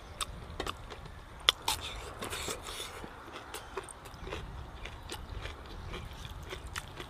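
A person chewing a mouthful of crispy fried chicken thigh: scattered sharp crunches and mouth clicks, with a denser run of crunching about two and a half seconds in. A low steady rumble runs underneath.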